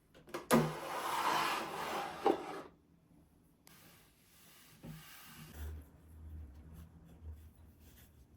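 A surface being rubbed hard during cleaning. A loud stretch of rubbing starts with a knock about half a second in and lasts about two seconds, with another knock near its end. After a short gap comes about two seconds of fainter rubbing.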